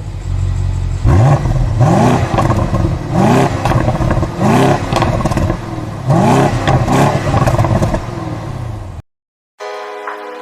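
Car engine revved in a series of short blips, about five, each rising sharply in pitch and falling away, with clatter between them. It cuts off abruptly about nine seconds in, and music starts soon after.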